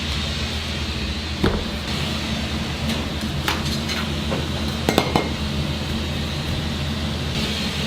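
Steady low hum with a few sharp clinks and knocks of metal utensils or dishes: one about a second and a half in, and a quick cluster about five seconds in.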